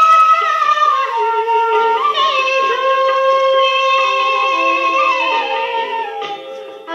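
G-sharp bansuri melody in long held notes joined by slides, over a song track with singing. The phrase fades near the end.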